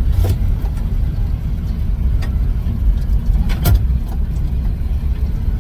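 1970 GMC pickup's engine running with a steady low rumble as it engine-brakes after a hard downshift, used to slow the truck because its brakes are bad. A sharp knock sounds about three and a half seconds in, with a few lighter ones.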